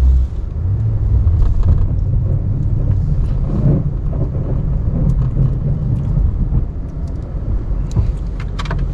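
Ram 1500 Classic pickup's engine running steadily while it pushes snow with the plow, with a couple of sharp clicks near the end.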